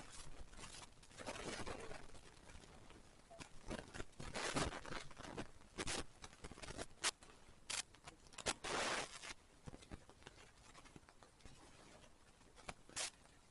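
Uneven crunching and rustling close to the microphone, with scattered sharp clicks: footsteps and handling noise from a handheld camera while walking.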